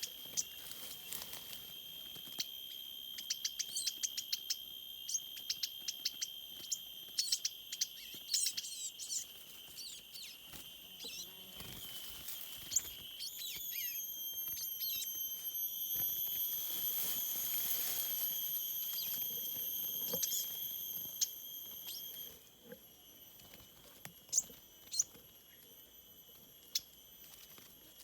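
Forest insects keep up a steady high-pitched drone, with short bird chirps over it. A rustling noise swells from about halfway through and drops away, together with the drone, a few seconds before the end.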